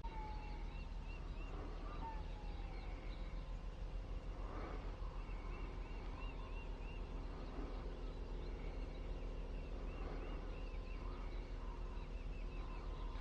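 Birds calling in repeated quick series of short notes, over a steady low rumble.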